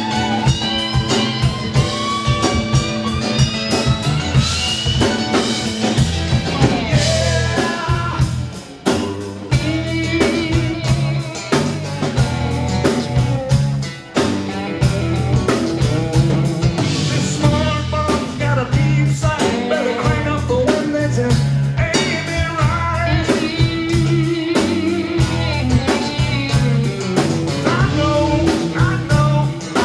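Live band playing a blues number: guitar with bent, sliding notes over a drum kit.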